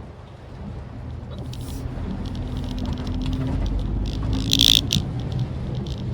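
Maruti Suzuki Swift Dzire driving in the rain: a low road and engine rumble that grows louder, with scattered raindrop ticks and a brief hiss about four and a half seconds in.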